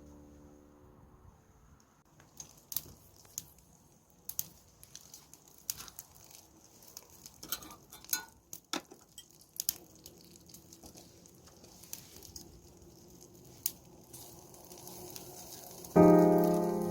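Wood fire crackling in a small grill, with scattered sharp pops over a faint hiss. Background music fades out at the start and comes back loudly near the end.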